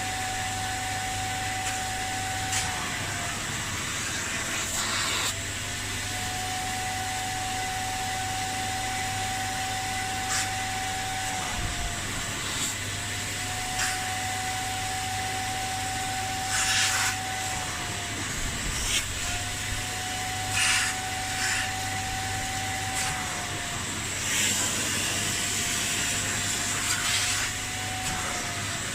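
Kärcher Puzzi 10/1 spray-extraction cleaner running on car seat upholstery: a steady suction-motor whine whose pitch dips briefly every five or six seconds, with short hissing bursts of spray and suction.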